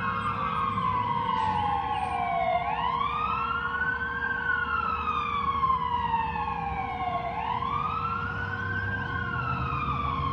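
Fire apparatus electronic siren sounding a wail: the pitch climbs, then falls slowly, repeating about every four and a half seconds, over a heavy truck's engine rumble.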